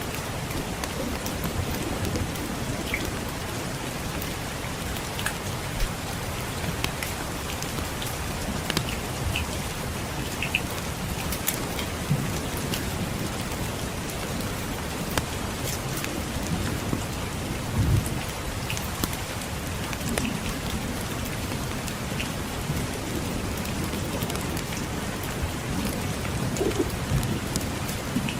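Steady rain falling, with a low rumble of distant thunder and a low thump about two-thirds of the way through. Sharp crackles of a wood fire in a fireplace are scattered throughout.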